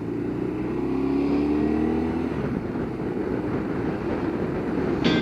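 Motorcycle engine under way, accelerating with its pitch rising over the first two seconds, then running steadily at speed.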